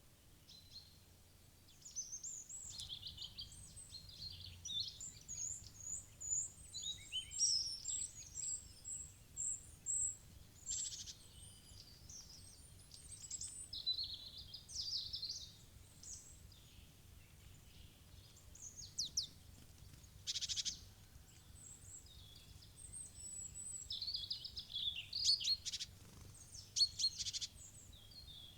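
Small songbirds chirping and calling in quick, high-pitched notes, busiest in the first third and again near the end, over a faint low hum.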